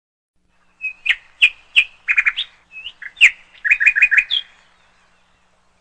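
A bird chirping: a string of sharp, separate chirps, then a quick run of faster notes, ending with one higher note about four and a half seconds in.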